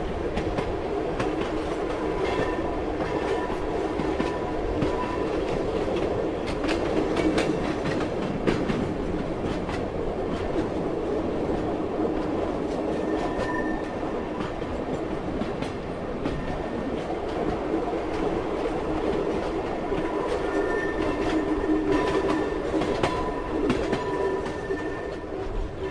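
Passenger train running on the rails: a steady rumble with the clickety-clack of the wheels over the track, scattered sharp clicks, and faint high wheel-squeal tones that come and go.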